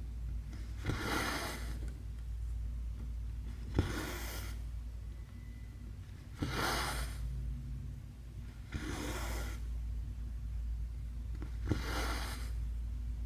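Cross-stitch needle and thread pulled through stamped fabric: five short swishes of thread drawn through the cloth, about one every two and a half seconds, several starting with a small click as the needle pierces the fabric. A steady low hum runs underneath.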